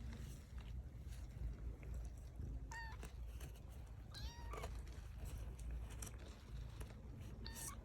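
A cat meowing: three short, high-pitched mews, the second the longest, over a faint low rumble.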